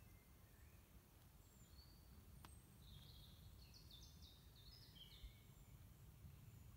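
Near silence with faint bird chirps, a short run of quick notes near the middle, over a low background rumble.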